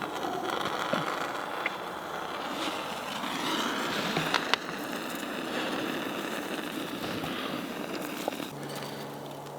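Newly lit campfire burning: a steady hiss of flame with a few sharp crackles. A low steady hum comes in near the end.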